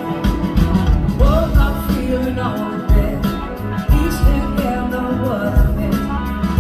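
Live blues-rock band playing, with a steady drum beat and bass under guitars. About a second in, a lead melody enters that bends and slides in pitch.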